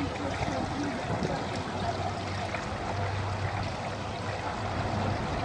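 Steady running, trickling water in a penguin pool.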